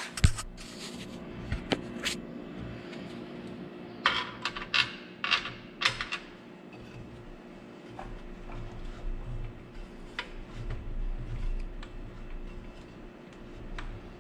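Metal clanks and clicks of hardware being handled and fitted while a miter saw is mounted on its stand: a sharp knock just after the start, a quick run of clicks a few seconds in, then low rumbling handling noise.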